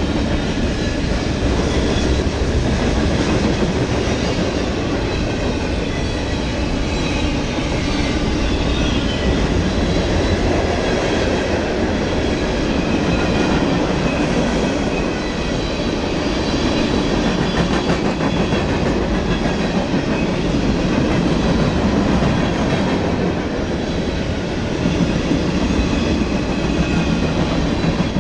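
Freight train cars rolling past close by: a steady, loud rumble of steel wheels on rail, with faint high-pitched squealing tones over it.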